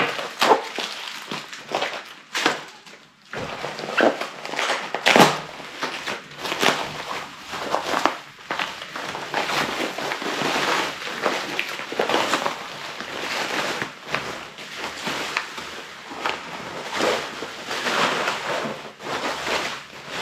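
Packaging being handled and unwrapped by hand: irregular crinkling and rustling with small knocks as a replacement motherboard is taken out of its box and wrapping.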